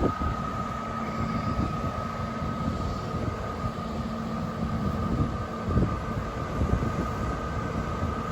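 Steady low rumble of idling emergency-vehicle diesel engines with a constant high whine, and wind buffeting the microphone in uneven low thumps.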